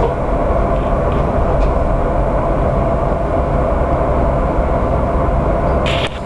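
Washington Metro subway train running in an underground tunnel or station: a steady, loud rumble with a droning whine. A short high hiss comes near the end.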